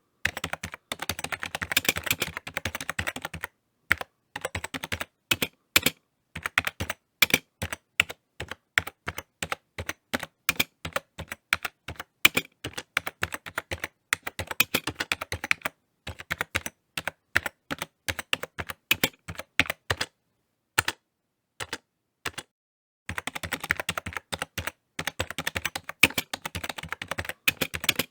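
Typing on a computer keyboard: fast runs of key clicks broken by short pauses, with a longer pause of about three seconds past the middle.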